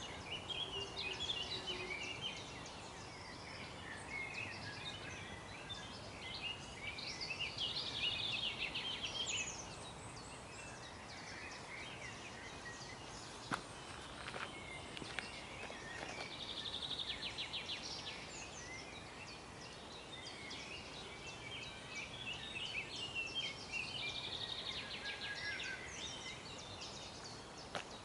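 Several songbirds chirping and singing over a steady outdoor hiss, with a few bursts of fast trills; a couple of sharp clicks near the middle.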